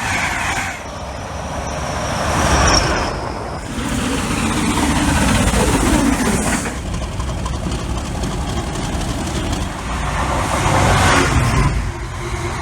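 Merseyrail 'Pep' electric multiple unit running at an underground platform: a steady rumble of wheels and traction equipment, with a thin high whine in the first few seconds and a low tone falling in pitch around the middle.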